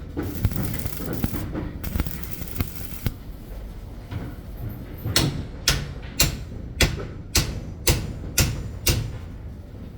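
Hammering: about eight sharp blows, roughly two a second, in the second half, after a few seconds of steady hissing noise.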